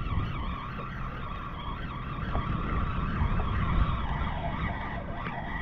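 Fishing reel being cranked in, a steady whirring whine that wavers slightly in pitch, over a low rumble of wind and water on the microphone.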